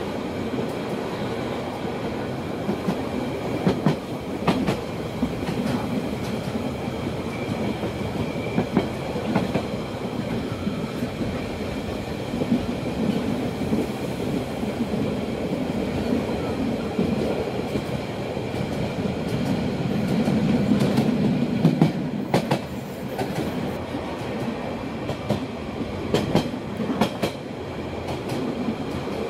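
Rhaetian Railway electric passenger train running along the track, heard from an open carriage. Steady wheel-on-rail noise carries a clickety-clack of scattered clicks and knocks and a faint steady high whine.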